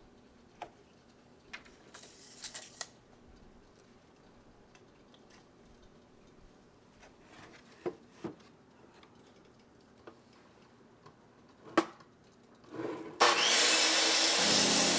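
Scattered knocks and clicks of wood and tools being handled, then near the end a power saw starts cutting wood, loud and steady.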